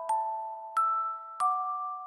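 Background music: a slow, gentle melody of struck bell-like notes, three in two seconds, each ringing on and fading before the next.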